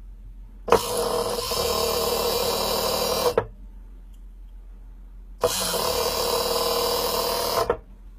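Small electric motor and hydraulic pump of an RC model truck's hydraulic system whining in two runs of about two and a half seconds each, starting and stopping sharply, as the handmade telescopic cylinder is worked without load.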